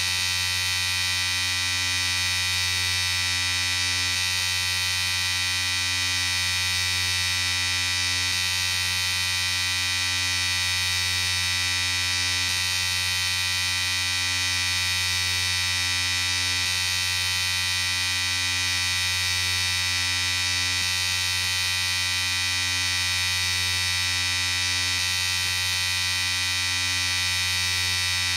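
Electric shaver running continuously with a steady, even buzz.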